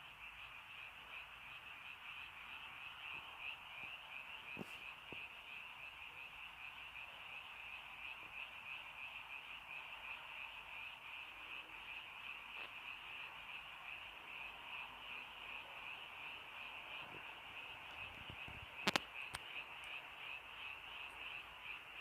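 A dense chorus of many frogs calling together, a steady pulsing trill that goes on without a break. A sharp click stands out about three seconds before the end.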